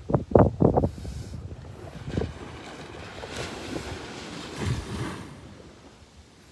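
Sea waves washing onto a beach, with wind buffeting the microphone in low rumbling gusts, strongest in the first second.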